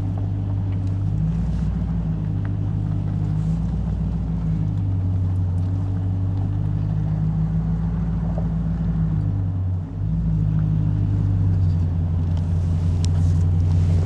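Pickup truck engine running steadily while driving, heard from inside the cab, with road noise and a brief dip in the engine note about ten seconds in.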